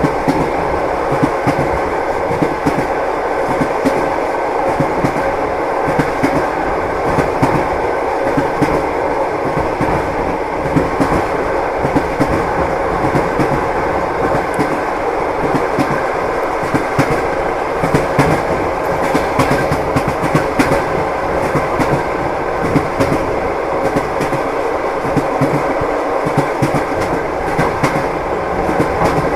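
Train wheels knocking over rail joints at steady speed. A regular clickety-clack repeats about once a second over a continuous rolling rumble.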